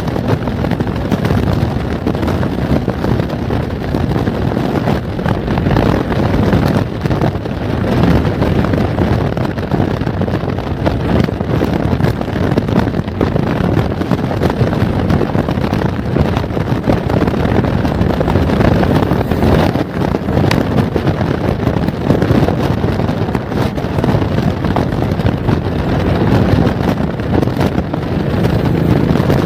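Motorcycle under way on the road: wind rushing over the microphone with the engine and tyre noise underneath, steady throughout.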